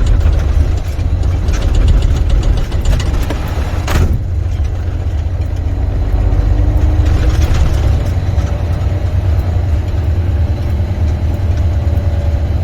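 Semi truck's diesel engine running low and steady as the truck creeps along. There is a single sharp knock about four seconds in.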